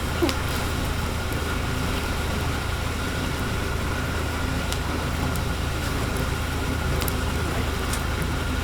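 A steady low mechanical hum with a faint steady high tone above it, and a few faint clicks.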